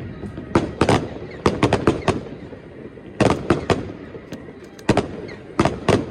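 Aerial fireworks bursting overhead: about a dozen sharp bangs at irregular intervals, several in quick clusters of two to four, with crackling between them.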